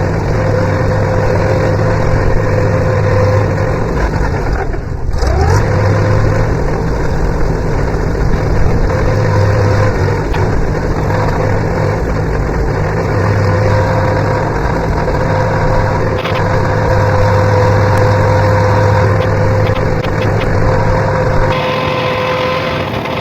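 Farmall tractor engine running steadily while driven. About five seconds in, the engine note briefly drops away and then climbs back up in pitch.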